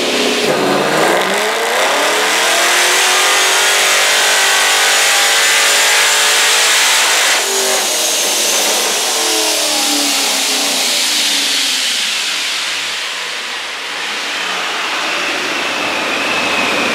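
Supercharged LSX 376-B15 V8 in a C6 Corvette making a full-throttle pull on a chassis dyno, running on C85 ethanol race fuel. Engine speed climbs steadily for about seven seconds under a high supercharger whine, then drops off suddenly and winds down as the rollers slow.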